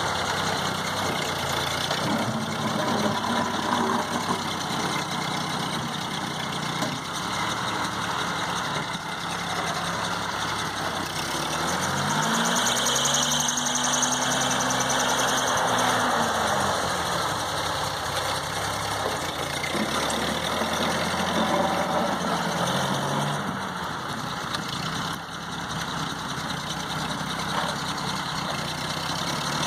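A 1952 Ford 8N tractor's four-cylinder gas engine running under load while plowing heavy wet snow. Its revs rise and fall a few times, about twelve seconds in, again a little past twenty seconds, and near the end.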